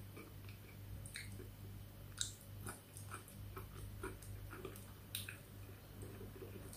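Faint chewing with small wet mouth clicks from a person eating rice by hand, and two sharper clicks about two and five seconds in, over a low steady hum.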